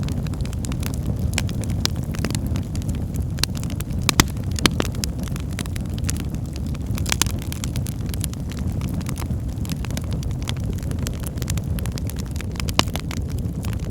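Wood logs burning in a fireplace: a steady low rumble of the flames with frequent sharp crackles and a few louder pops.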